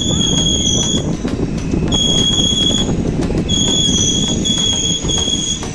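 Express train running with a steady low rumble and rail clatter, and a high-pitched metallic squeal from the wheels and brakes coming and going in several held stretches of about a second as the train slows toward a station stop.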